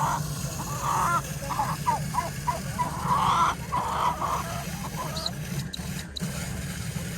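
Poultry calling in a run of short squawks and honks during the first four seconds or so, over a steady low hum.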